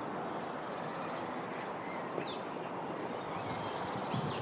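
Outdoor ambience: a steady hiss with a few short, scattered bird chirps.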